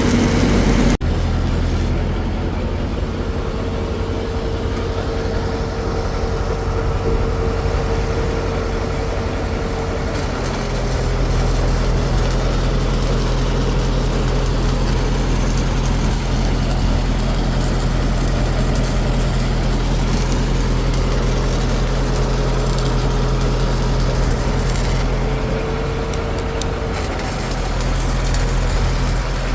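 A heavy engine running steadily, a low drone with a faint higher whine that comes and goes; it gets louder about ten seconds in.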